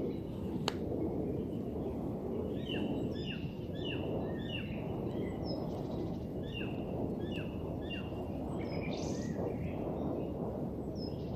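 Woodland birds calling: a run of short, quickly repeated chirps at about two a second, with other birds chirping around them, over a steady low rumble. A single sharp click comes under a second in.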